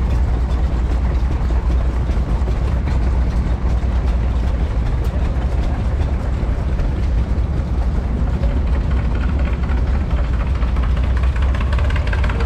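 A vintage stationary engine running steadily, a low, even rumble.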